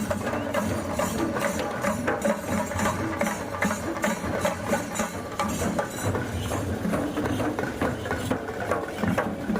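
Live folk drumming for a Kommu Koya dance: many drums beating a dense, continuous rhythm.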